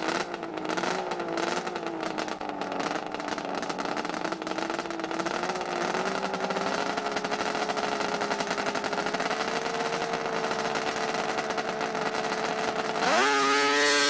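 Two-stroke snowmobile engine running at a steady pitch that slowly creeps higher, then revving sharply up and getting louder about a second before the end.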